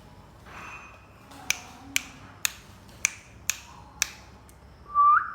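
Six sharp snapping clicks, about two a second, followed near the end by a short, loud rising squawk from a ringneck parrot.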